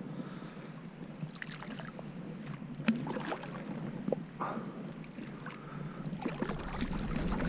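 Small splashes and irregular knocks on and around a fishing kayak while a hooked trout is brought in to the net, over a low wash of water.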